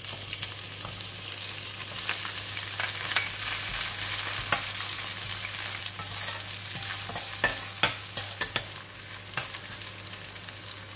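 Sliced ginger sizzling in hot oil with chopped garlic in a stainless steel wok, the sizzle starting suddenly as the slices hit the oil. A slotted metal spatula scrapes and clicks against the pan as it is stirred, the clicks coming more often in the second half.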